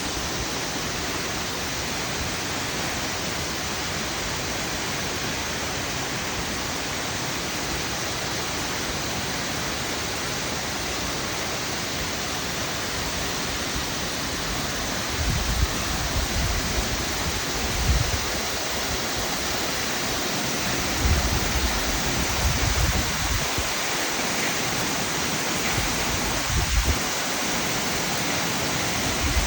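A waterfall about 25 m high, with a full flow after rain, making a steady rush of falling water. Low, irregular rumbles come in now and then during the second half.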